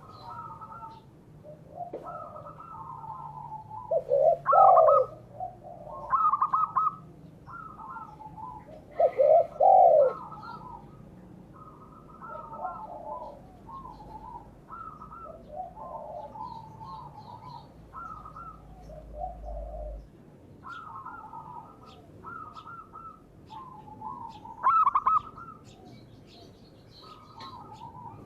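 Several doves cooing over one another in repeated short phrases, with louder coos about four, nine and twenty-five seconds in; the title names zebra doves (perkutut) and spotted doves (derkuku). Faint high chirps from small birds sound in the background.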